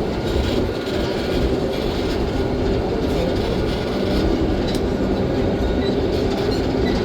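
Disney tram running steadily, heard from aboard: an even rumble of road noise with an engine hum.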